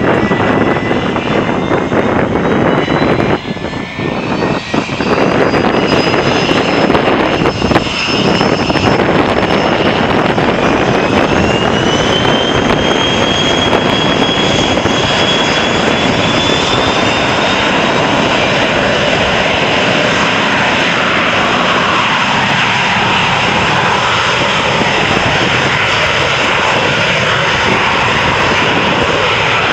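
McDonnell Douglas MD-87 airliner's rear-mounted Pratt & Whitney JT8D turbofans at takeoff thrust, a loud roar with whining tones that climb in pitch over the first fifteen seconds or so and then hold steady as the jet rolls and departs.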